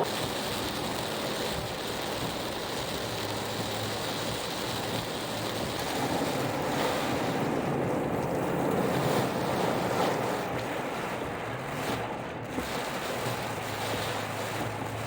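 Steady rush of heavy rain and wet-road noise from a car driving through a downpour, with a low drone underneath that fades in and out.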